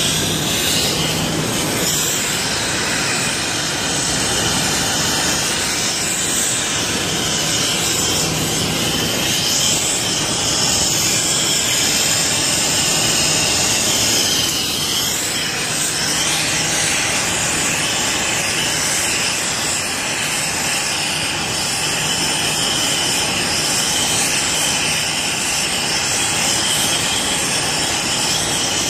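A loud, steady rushing noise with a faint hum underneath, unbroken throughout.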